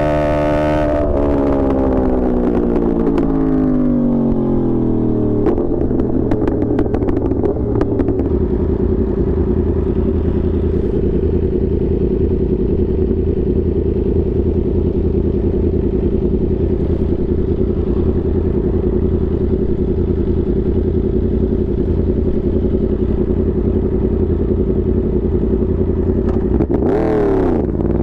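Yamaha R1 inline-four sport bike engine winding down from high revs, with a few crackles as it slows. It then holds a steady note for most of the time and revs sharply back up near the end.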